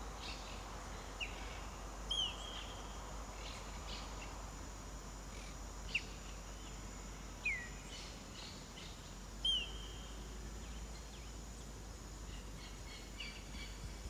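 Wild birds calling outdoors over a steady background of open-air noise: a few short, sharp calls every few seconds, several of them falling in pitch.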